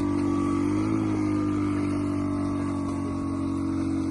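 A small engine running steadily, its pitch rising and falling briefly about a second in.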